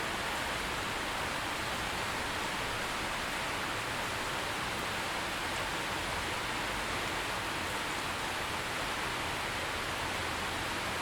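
Steady heavy rain: an even, unbroken hiss of falling rain with no distinct drops or thunder.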